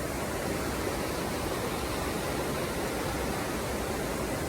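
A small creek waterfall rushing, a steady, even wash of falling water.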